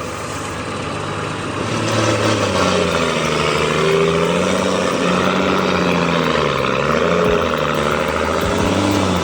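A large engine running under changing load, its pitch drifting up and down repeatedly.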